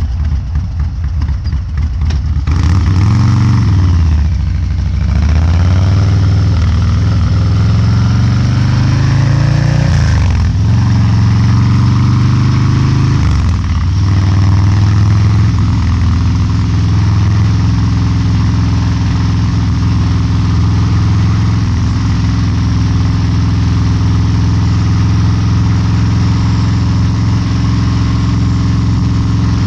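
Harley-Davidson Low Rider's 129 cubic inch V-twin with a Two Brothers Racing exhaust, idling unevenly, then pulling away about two and a half seconds in. It accelerates hard through three gear changes, its pitch rising and dropping at each shift, then settles into a steady cruise.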